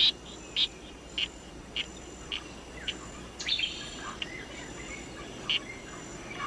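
A poison dart frog calling: short high chirps repeated about every 0.6 s, turning sparser in the second half. Behind them is a faint high insect-like chirring.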